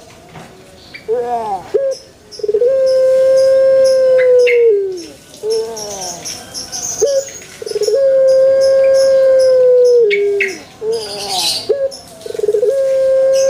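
Puter pelung dove (Streptopelia risoria) singing its long call three times. Each call starts with short stuttering notes, then holds one long, loud coo for about two seconds that drops in pitch at the end.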